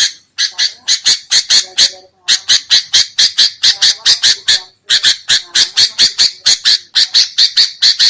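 Sooty-headed bulbul (kutilang) giving rapid harsh chattering calls, about five a second, in runs broken by brief pauses. This is the agitated 'ribut' call used as a lure to draw wild bulbuls in.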